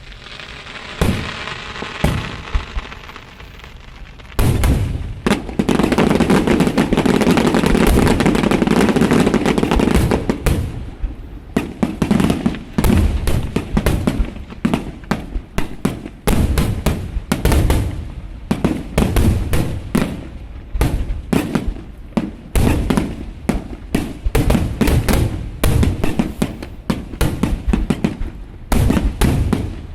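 Aerial fireworks going off. A crackling hiss comes first, then about four seconds in a dense, nonstop barrage of bursts, which breaks up near the ten-second mark into rapid separate bangs, several a second.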